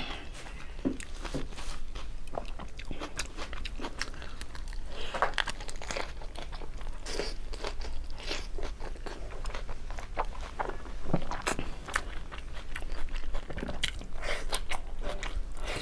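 Close-up eating sounds of a person biting and chewing a lettuce-wrapped piece of braised pork belly and then bok choy: irregular wet crunches and chewing.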